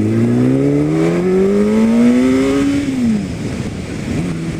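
Kawasaki Ninja ZX-10R's inline-four engine pulling hard under acceleration, its pitch climbing for about three seconds, then dropping quickly as the throttle closes and settling to a steady cruise near the end.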